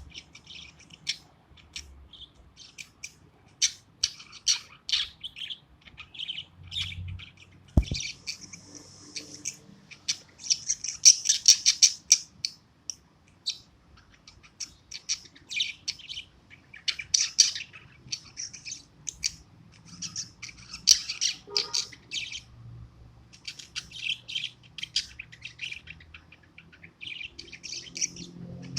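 Pet budgerigars chirping and chattering in quick bursts of short, high calls, with brief pauses between the bursts.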